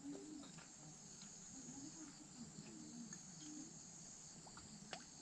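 Faint, steady high-pitched chorus of insects such as crickets, with a few soft ticks.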